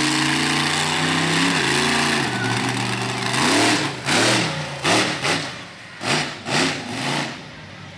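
Monster truck engine running hard at high revs, then blipped through a quick series of about six or seven sharp revs, each rising and falling in pitch, before it drops back to a lower, quieter run near the end.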